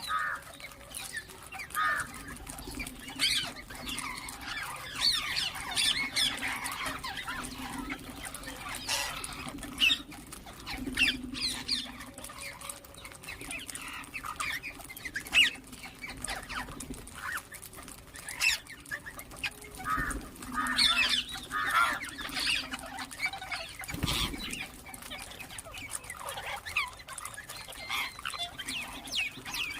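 Ringneck parrots squawking and chirping, many short calls overlapping and coming irregularly, over a low steady hum. A single thump sounds about 24 seconds in.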